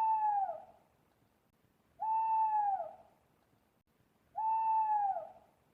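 Owl hooting three times, evenly spaced about two and a half seconds apart; each hoot is a held note of just under a second that dips in pitch at its end.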